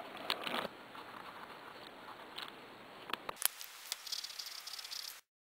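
Pen scratching back and forth on paper, scribbling to darken in small circles of a drawing, with a few sharp taps about three seconds in. The sound cuts off abruptly near the end.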